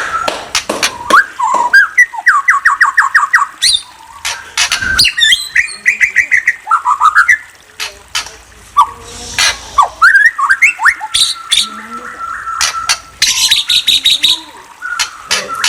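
A bird chirping and squawking continuously: sharp clicks, quick rising chirps and fast runs of repeated notes, about eight a second, a couple of seconds in and again around six seconds.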